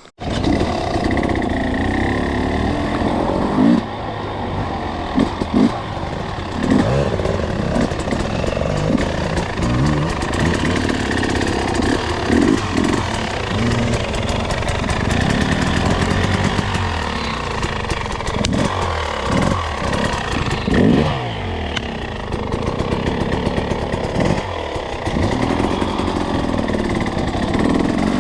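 Two-stroke enduro dirt bike engine pulling on a trail, its revs rising and falling again and again. It cuts in suddenly at the start and runs loud throughout.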